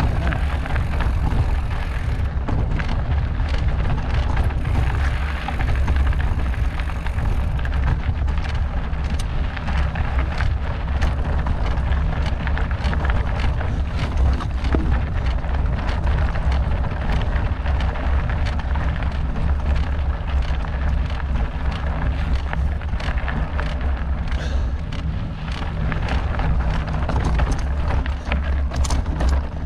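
Wind rumbling on the microphone of a mountain biker's camera, with the bike's tyres rolling over a rocky trail and many small clicks and knocks of rocks and rattling parts.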